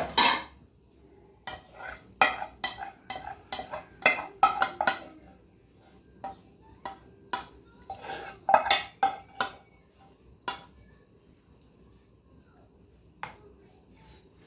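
A serving spoon clinking and scraping against metal cookware while food is dished up: a quick run of irregular clinks, a pause, another run, then one last clink near the end.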